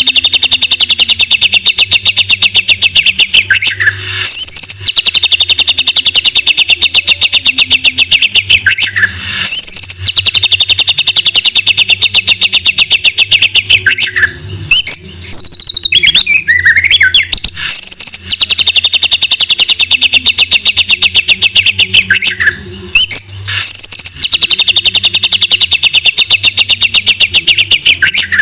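White-rumped shama (murai batu) singing long, very fast rattling trills of evenly repeated high notes, each run lasting about four seconds, broken by short pauses. About halfway through, a burst of varied whistled notes replaces the trill. A faint steady low hum runs underneath.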